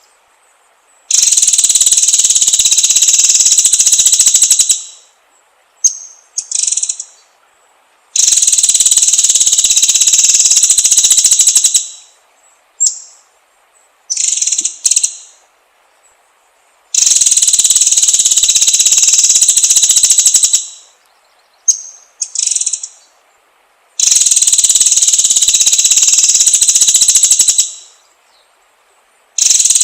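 Songbird recording: short, high, curving call notes alternate with long, loud, even buzzing trills of about three and a half seconds each, four trills in all.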